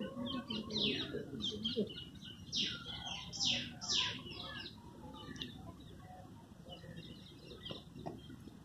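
A bird calling in a quick series of downward-sweeping notes, loudest a few seconds in, then dying away.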